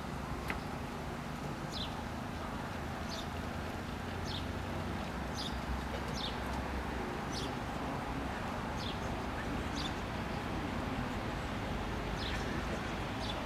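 A small bird repeating a short, high, falling call about once a second, over a steady low rumble of outdoor background noise.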